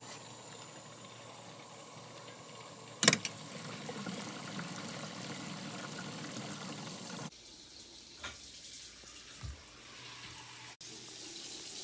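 Water running from a tap into a sink, a steady rush, with one sharp knock about three seconds in. The rush drops lower about seven seconds in, with a couple of small knocks, and comes back louder near the end.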